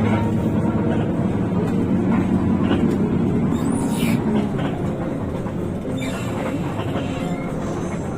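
Rear-mounted diesel engine of a Hino RK8 bus running under way, a steady low drone with scattered clicks and rattles, easing slightly about halfway through.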